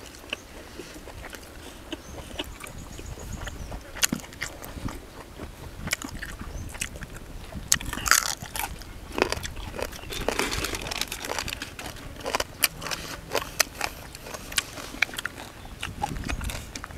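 A person eating, chewing and crunching mouthfuls of food in irregular bites, with scattered small clicks and mouth noises.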